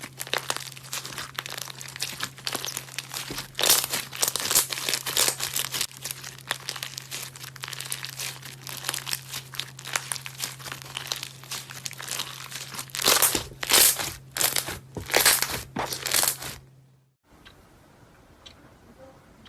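Crunchy slime being squeezed and pressed by hand, a dense crackling with louder bursts of crunching, over a steady low hum. About 17 seconds in it cuts off abruptly, leaving a faint background with a few small ticks.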